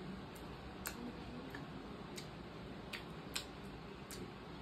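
Mouth sounds of a person eating: chewing and licking food off his fingers, heard as faint irregular clicks about every half second to second, the sharpest a little past three seconds in.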